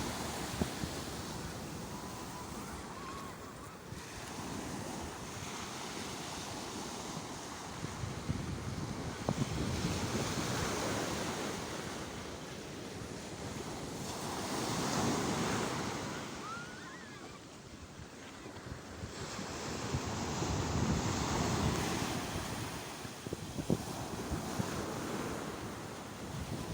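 Sea waves breaking and washing on the shore, the surf swelling and fading every few seconds, with wind buffeting the microphone.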